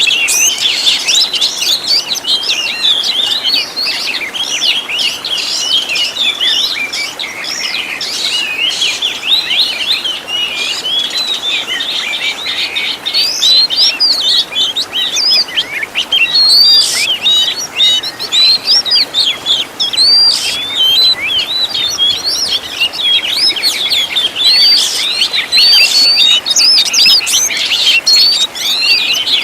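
Oriental magpie-robin (kacer) singing a rich, varied song: a dense, unbroken stream of quick chirps, whistles and trills, with sharp high notes now and then.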